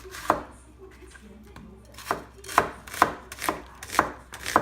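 Knife chopping on a cutting board in separate strokes: one early stroke, then after a pause a run of about two strokes a second.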